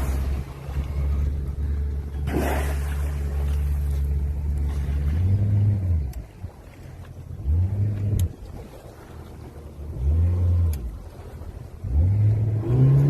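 Boat engine running at a steady low idle, then revved up and let back down four times, about every two and a half seconds, the last rev holding at a higher speed near the end. Two short rushes of noise come in the first few seconds.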